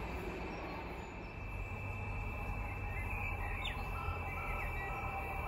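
Low rumble of an electric multiple-unit passenger train running away into the distance, fading, with a steady high whine over it. A few short bird chirps come about three to four seconds in.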